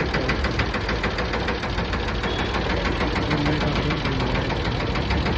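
Mini tractor's engine running steadily with a fast, even knocking beat, powering a sugarcane juice crusher.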